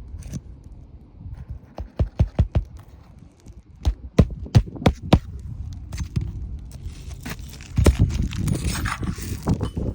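A series of sharp knocks: about four in quick succession some two seconds in, then about five more a couple of seconds later, followed near the end by a noisy stretch of handling sounds and light knocks.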